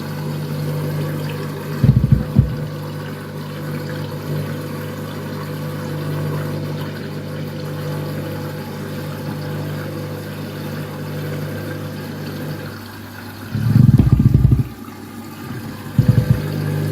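Overloaded 7 kg front-loading washing machine running its wash. The drum motor hums steadily and stops about 13 seconds in. Short loud bursts from the heavy load in the drum come about 2 seconds in and again near the end.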